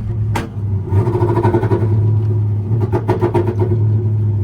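Truck engine running and pulling away under load, louder from about a second in, with a few sharp knocks over it.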